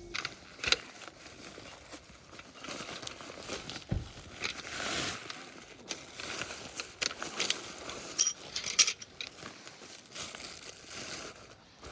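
Irregular rustling and crinkling, broken by several sharp clicks.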